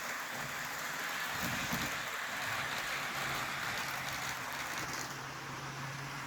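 HO scale model diesel locomotives running around the layout track: a steady whirr of the motors and rolling wheels, with a faint low hum coming in about halfway through.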